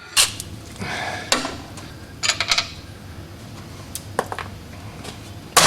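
Metal clinks and short scrapes of a wrench and steel parts as motor mount bolts are worked on, a handful of separate knocks spread over a few seconds.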